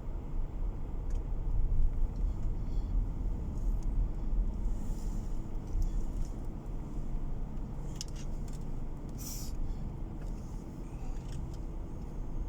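Steady low road and engine rumble heard inside a moving car's cabin, with a few brief ticks about eight and nine seconds in.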